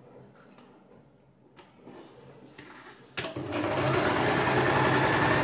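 Sewing machine starting about three seconds in and running fast for about two seconds as it stitches a seam in cotton blouse fabric, then stopping abruptly. Before it there are only faint, quiet sounds.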